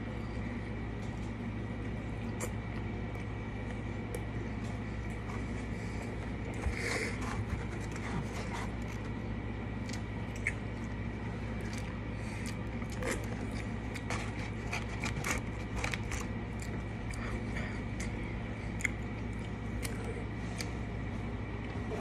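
Close-up eating sounds of a person biting into and chewing a McDonald's Double Quarter Pounder with Cheese: many short wet mouth clicks and smacks, scattered irregularly and more frequent after the first few seconds. A steady low hum runs underneath.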